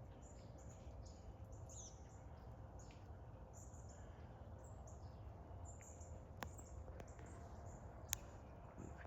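Faint outdoor quiet with scattered short bird chirps, and two sharp clicks about six and eight seconds in.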